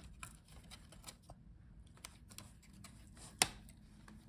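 Light clicks and rustling of hands handling a laptop's internal parts and cables, with one sharper click about three and a half seconds in.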